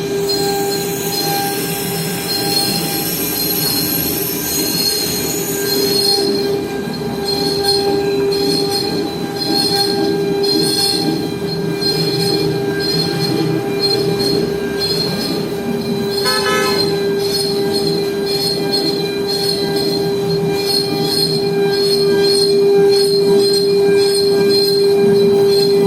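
CNC machine running: a steady high-pitched whine, with a faster high hiss that pulses about twice a second from about six seconds in.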